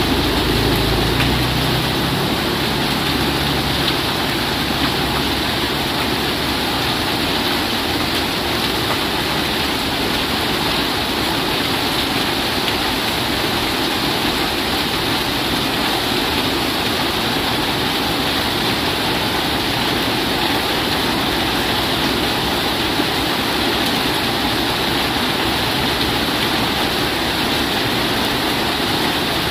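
Heavy rain falling steadily on a corrugated roof and a flooded yard, with runoff pouring off the eaves in streams; an even, unbroken hiss.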